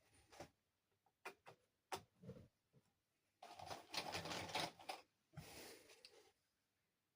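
Handling of plastic toy parts and packaging: a series of light clicks and taps, then two longer rustling scrapes, the first and loudest about three and a half seconds in, the second about five and a half seconds in.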